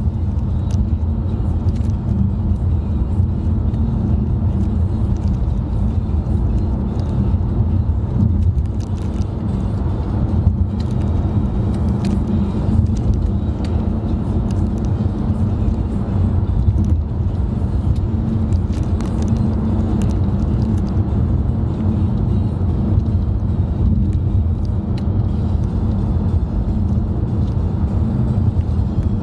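Steady low rumble of road and engine noise inside a moving car's cabin, even and unchanging.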